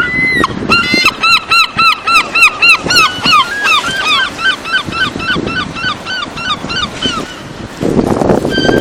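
Gull giving its long call: a fast run of repeated yelping notes, about three a second at first, then quicker, shorter and gradually fainter.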